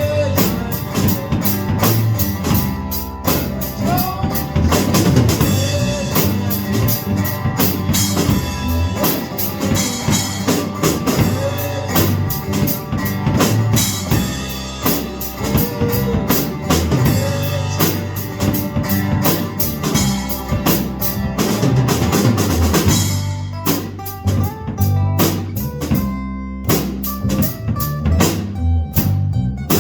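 Live band playing an instrumental passage on drum kit and guitar with a steady beat. About 23 seconds in, the cymbals and high drum hits thin out and drop away, leaving mostly the lower guitar and bass notes.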